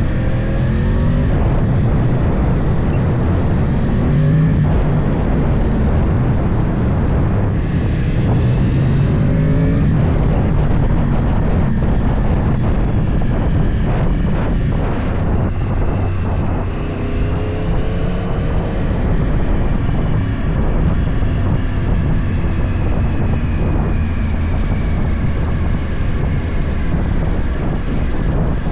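Yamaha YZF-R1's crossplane inline-four, with its uneven 'big bang' firing, running through a full Akrapovic exhaust as the bike is ridden; the engine note rises in pitch several times as the rider opens the throttle and pulls through the revs.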